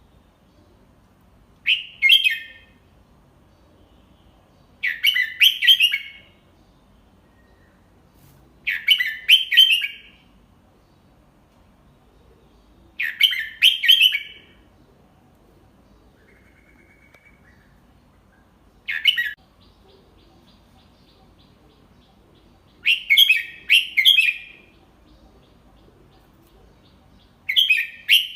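Red-whiskered bulbul singing a short phrase of several quick notes, repeated seven times about every four seconds. This is a tutor bird's song, slow and clear, meant for young bulbuls to copy.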